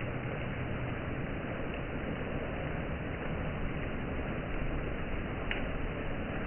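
Steady rushing noise of falling rain, with one short tick about five and a half seconds in.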